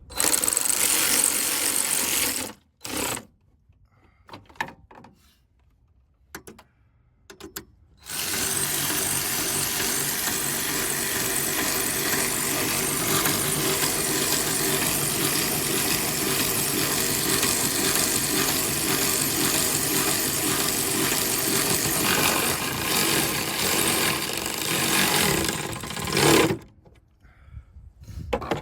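Mechanical running noise from a 2018 Chrysler Pacifica as the owner tries to start it after a battery replacement: a loud burst lasting about two and a half seconds and a short one right after, a few faint clicks, then a steady run of about eighteen seconds that stops suddenly near the end.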